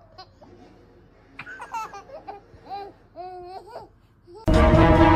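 Laughter in short, bending bursts, followed near the end by loud music starting suddenly.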